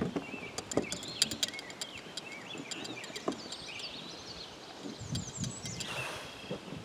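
Small birds chirping and twittering in quick, varied phrases, with a few sharp light knocks in between.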